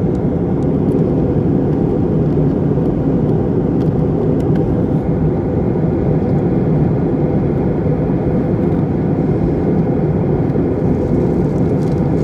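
Steady airliner cabin noise: engine and airflow rumble heard from inside the cabin, with a faint steady hum.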